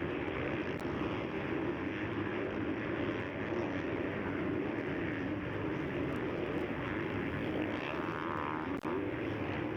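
Motocross bikes racing on a dirt track, their engines revving up and down through the gears in a steady drone, with a brief dropout in the sound just before the end.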